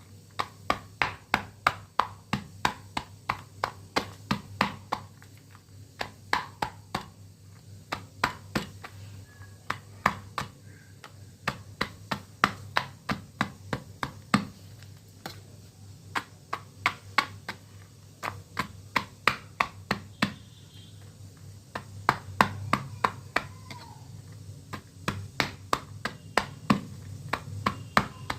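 Brittle dried clay flower being crunched and broken apart piece by piece: runs of sharp, crisp snaps, about two to three a second, with short pauses between runs, over a steady low hum.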